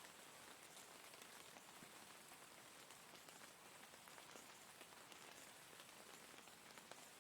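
Steady rain falling, a soft even hiss with scattered individual drops ticking.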